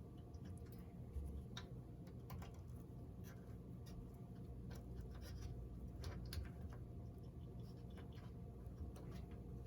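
Faint, scattered clicks and scratches of hands handling small wires and parts, over a low steady hum.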